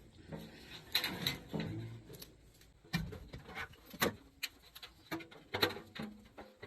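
Irregular clicks and knocks of tools and parts being handled while a replacement capacitor is fitted into an air-conditioning unit.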